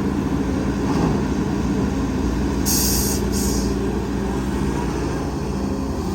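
Heavy diesel engine of earthmoving machinery running steadily, with two short hisses of air a little under three seconds in, about half a second apart.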